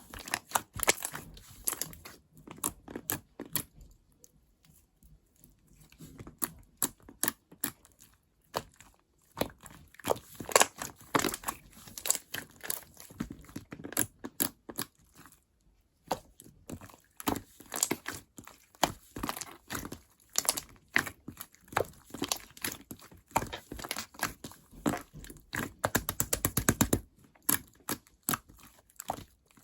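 Hands squeezing, poking and stretching a pastel butter jiggly slime, making quick sticky clicks and small pops, with a fast run of clicks about 26 seconds in.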